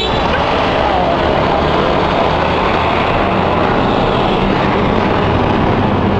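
Loud, steady rushing noise of busy street traffic.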